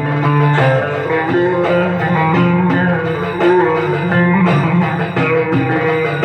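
Electric bağlama (long-necked Turkish saz lute) playing a folk melody, with quickly changing plucked notes over a low sustained drone.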